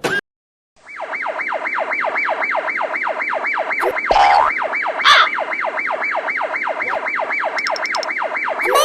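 Siren yelping: a loud tone sweeping quickly down from high to low over and over, about four times a second, starting just under a second in after a brief cut to silence.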